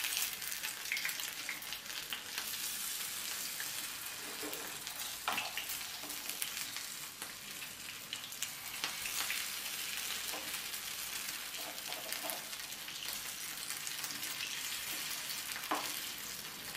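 Batter-coated boiled egg halves frying in oil in a shallow non-stick pan, a steady crackling sizzle. A few clicks and scrapes come from a spatula as the pieces are turned over.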